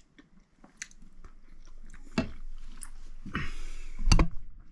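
A person chewing a mouthful of rehydrated Mountain House stroganoff, with small wet mouth clicks. A sharp knock comes about two seconds in, then a brief rustle and a louder knock near the end.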